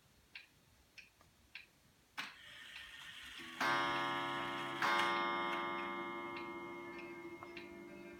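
A sharp, regular ticking, a little under two ticks a second, runs throughout. About three and a half seconds in, a loud sustained chord rings out in the background music, a second chord comes just before five seconds, and both slowly fade.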